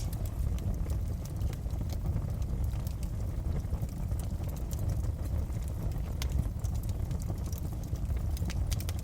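Wood fire crackling, with scattered pops over a steady low rumble of the flames. There are a few sharper pops about six seconds in and near the end.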